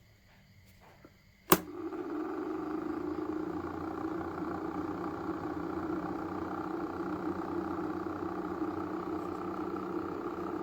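A sharp switch click about one and a half seconds in, then the small battery-powered DC motor fan of a cardboard air-conditioner model starts and runs with a steady hum.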